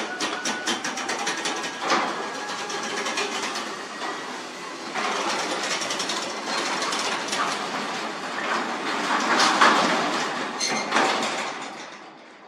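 Garage door travelling along its tracks on newly fitted rollers: a quick run of clicks for the first few seconds, then a steadier running noise that fades away near the end.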